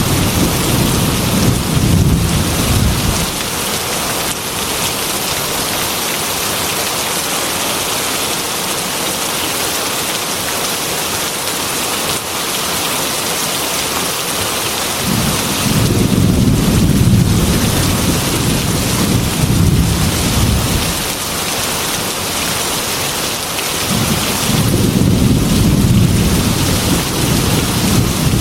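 Heavy rain falling steadily on a glass window, with long low rolls of thunder: one at the start, a longer one past the middle, and another near the end.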